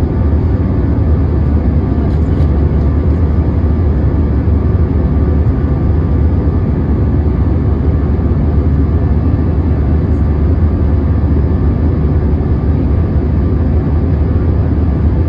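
Steady drone of an Airbus A321's jet engines and airflow heard from inside the passenger cabin, a deep rumble with a hiss above it that holds an even level.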